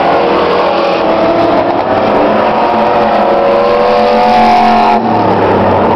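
Several racing pickup trucks' engines running loudly at speed, their notes rising and falling as they accelerate and lift; one engine's rising note breaks off sharply about five seconds in.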